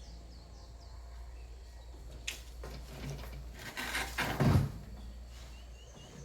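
Handling noises over a steady low hum: a sharp click about two seconds in, then a run of knocks and rustling ending in a loud low thump a little past four seconds.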